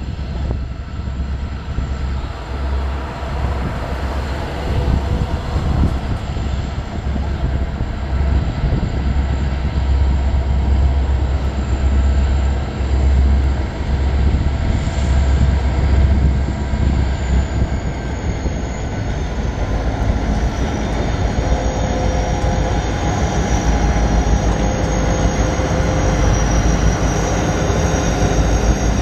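Train passing with the steady, heavy low rumble of diesel locomotives. A faint high whine slides lower in pitch about two-thirds of the way through.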